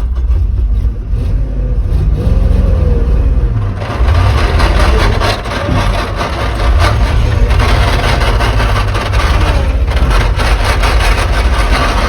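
Old three-ton truck's engine running loud under way, revving up and dropping back several times.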